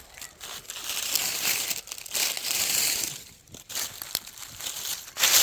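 Crinkling, crunching rustle in several bursts: a long one in the first half and a short, sharp, loud one near the end.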